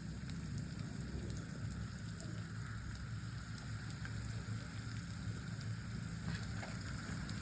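Food frying in a pan: a steady sizzle with small scattered crackles over a low rumble.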